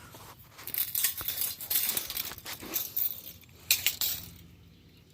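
Irregular small clicks and metallic clinks of hand tools and metal being handled as the hand truck's steel axle is measured, with two sharp clicks about four seconds in.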